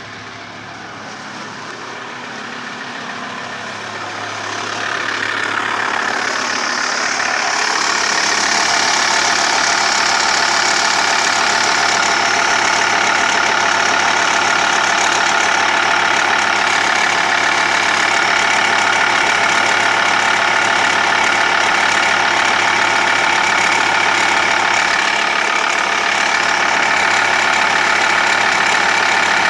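TDI turbo-diesel engine idling with a steady ticking/clicking mixed into its running. The noise is still there after a new crankshaft pulley and tensioner, and the owner doubts it comes from the timing belt. It grows louder over the first several seconds, then holds steady.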